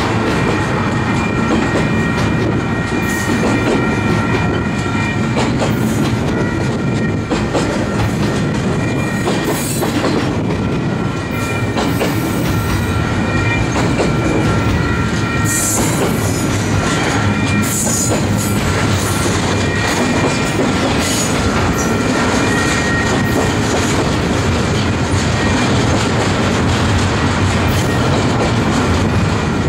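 Double-stack container train of well cars rolling past close by: steel wheels rumbling and clicking over the rail joints, with faint clanks from the cars and a few steady high-pitched tones over the noise.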